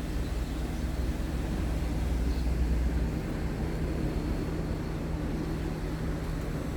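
Scania R truck's diesel engine running steadily at idle, a constant low hum whose deepest rumble eases about three seconds in.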